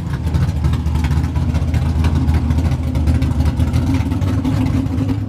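Loud car engine running steadily with a rapid, even firing pulse, cutting in abruptly at the start.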